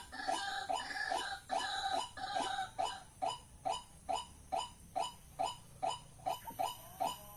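White-breasted waterhens calling: a run of short, repeated croaking notes about three a second. The notes are louder and fuller for the first few seconds, then settle into a steady, quieter series.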